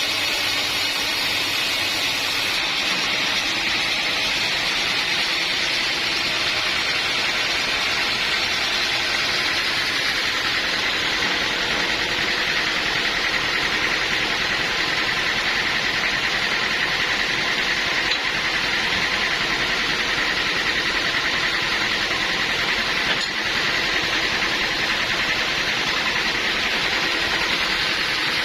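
Sawmill running steadily, a constant mechanical noise with a faint high whine that grows clearer partway through.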